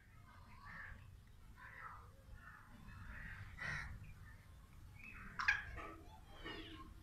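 Faint, scattered bird calls, short and harsh, with the sharpest and loudest call about five and a half seconds in.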